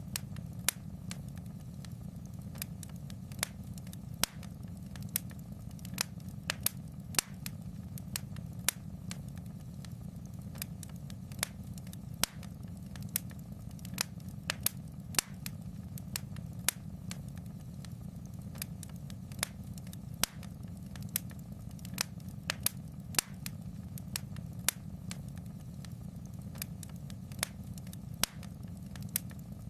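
Wood fire in a fireplace crackling: sharp, irregular pops and snaps, about two or three a second, over a steady low rumble.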